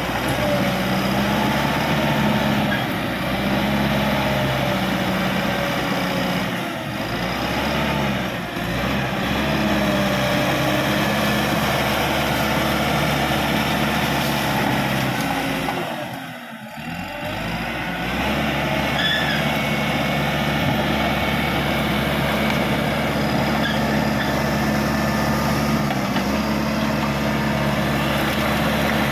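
Caterpillar D5K XL bulldozer's diesel engine running steadily under working load, its pitch shifting as the engine works, with a brief dip in level about halfway through.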